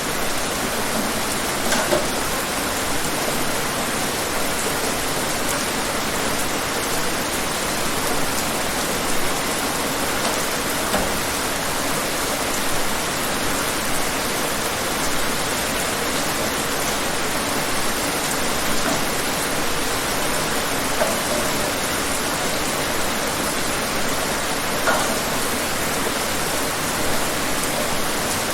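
Steady rain falling, an even dense hiss with scattered louder drops spattering on a surface.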